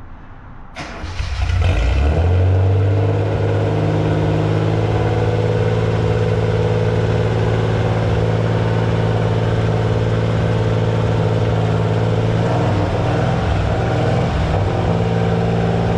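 Datsun 240Z straight-six engine starting about a second in, rising briefly in speed, then settling into a steady idle through its newly fitted exhaust and muffler. The idle wavers a little near the end.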